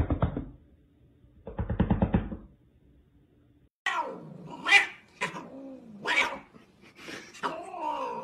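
Domestic cats meowing and yowling: two low, rough calls in the first couple of seconds, then, after a short pause, a run of drawn-out calls that rise and fall in pitch, the yowling of an upset cat.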